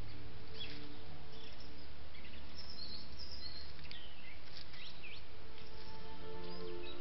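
A few short bird chirps and twitters from small songbirds over the steady hiss of a trail camera's built-in microphone.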